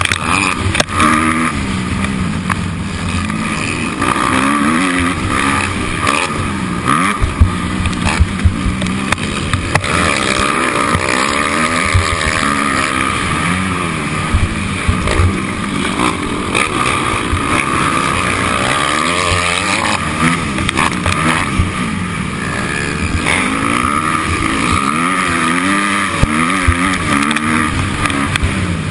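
Motocross bike engine revving up and falling back again and again as it is ridden hard, with a rough rumble and scattered thumps.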